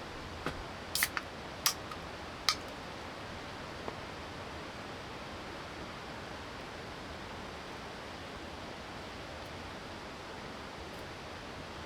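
Steady rain hiss, with a handful of short sharp clicks in the first four seconds.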